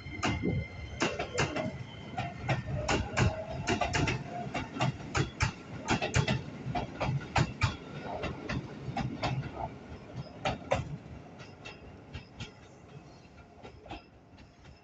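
Keisei 3000 series electric train's wheels clicking over rail joints and points as it pulls slowly into the platform. The clicks are dense at first, then thin out and fade over the last few seconds.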